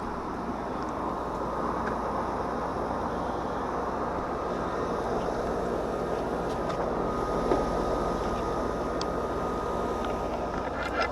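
Air-conditioning unit running: a steady mechanical hum with fan noise.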